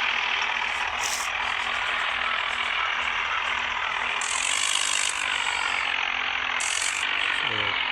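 Tractor engines of a Swaraj 855 and a John Deere 5210 running hard under heavy load in a tug-of-war pull, a steady dense engine and mechanical rattle, with a few brief high hissing bursts about one, four and seven seconds in.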